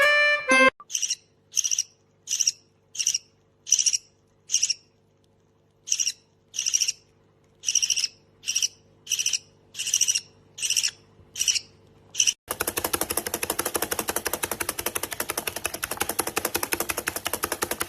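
A bird giving short, evenly spaced chirps, roughly three every two seconds with one brief pause. About twelve seconds in it switches abruptly to a continuous, rapid buzzing rattle.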